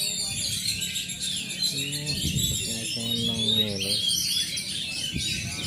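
Caged oriental magpie-robins (kacer) singing, a continuous dense chorus of overlapping chirps, whistles and warbles. A low voice-like murmur comes in about two seconds in and fades about four seconds in.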